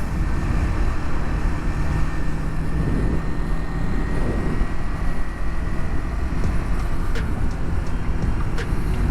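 Yamaha MT-03's parallel-twin engine running at a steady pace while riding, with a steady rush of wind noise over it.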